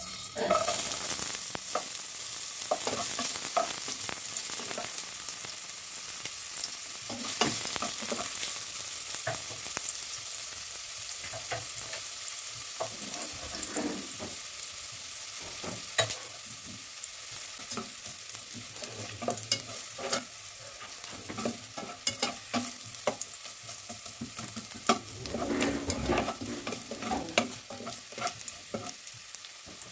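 Julienned ginger frying in hot oil in a metal pot: a steady sizzle with scattered crackles and pops, starting as the ginger goes into the oil about half a second in. Near the end a spatula stirs the ginger, scraping against the pot.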